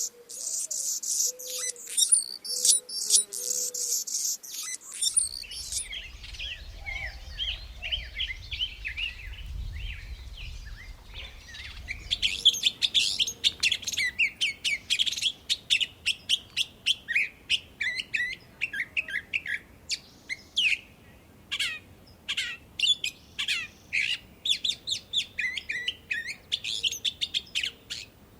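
Small backyard birds chirping and calling, with many short, sharp notes that come in quick runs of repeated chirps through the second half. A low rumble sits under the calls for several seconds in the first half.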